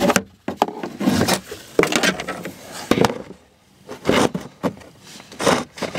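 Handling noise from a camera being positioned and wedged in place inside a truck cab: irregular scrapes, rubs and knocks, with a brief lull midway.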